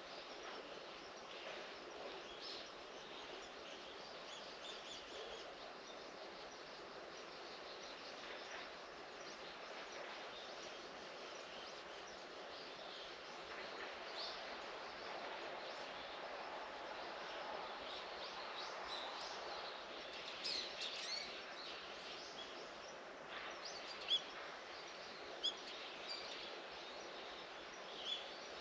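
Steady outdoor background hiss with birds chirping now and then: a cluster of calls about two-thirds of the way in, then a few sharp single chirps near the end.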